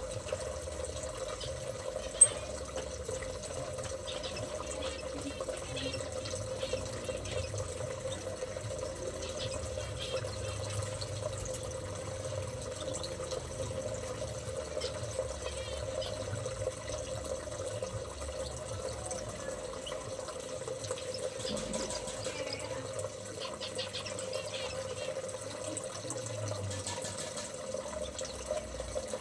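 Water running steadily, as from an aviary water feature, under a steady low hum, with small birds giving short high chirps now and then. There is one sharp click about two seconds in.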